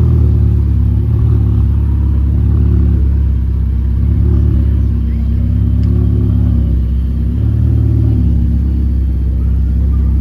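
A car engine running with a deep, steady rumble close by, its pitch shifting slightly now and then.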